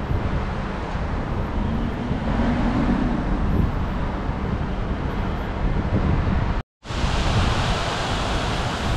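Road traffic in heavy rain: a steady wash of tyre and rain noise with a low passing-vehicle hum. After a brief dropout about two-thirds of the way through, the rain hiss is louder and brighter.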